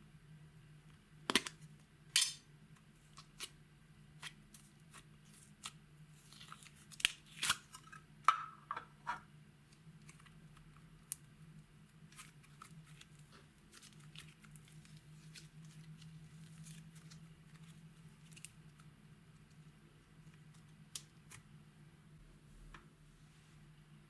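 Hands working slime and makeup, giving scattered sharp clicks and crackles, busiest in the first ten seconds and sparser after, over a steady low hum.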